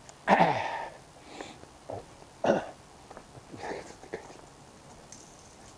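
A man making short wordless sounds with his voice, like a throat-clear or grunt. The loudest comes just after the start with a falling pitch, and another comes about two seconds later, with a few fainter ones after.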